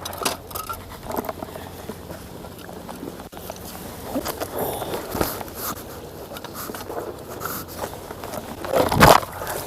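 Irregular scraping, clicking and rustling of close handling or movement, with a louder knock near the end.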